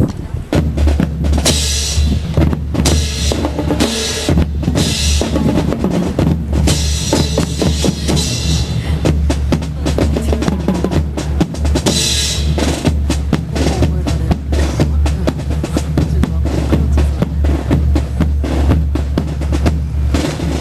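Drum-led music with bass drum and snare, the snare hits sharp and frequent.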